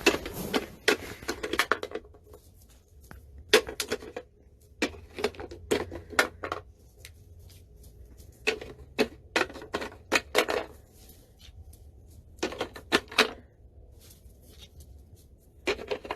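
Quick clicking and tapping of small hard objects, coming in about six short bursts with pauses between them.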